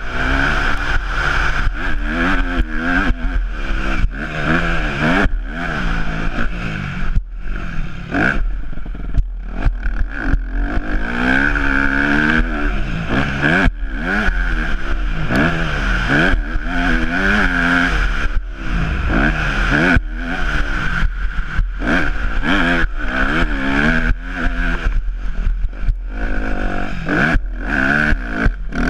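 Yamaha YZ250F four-stroke single-cylinder motocross engine revving up and down over and over as the bike is ridden hard, the pitch climbing and dropping many times with brief sudden throttle chops.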